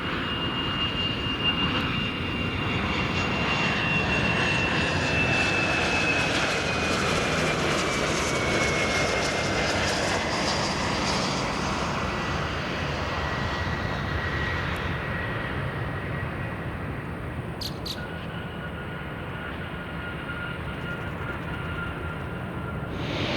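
Jet airliner's turbofan engines passing: steady engine noise with a high whine that slowly falls in pitch as the aircraft goes by.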